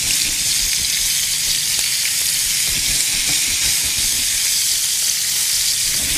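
Marinated chicken skewers sizzling in hot oil in a grill pan: a steady frying hiss.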